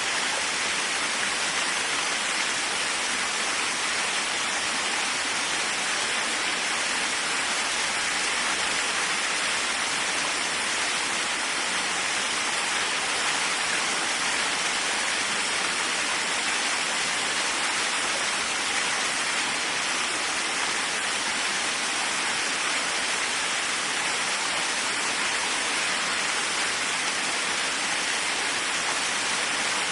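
Waterfall: steady rushing of falling water, an even hiss-like roar with no breaks.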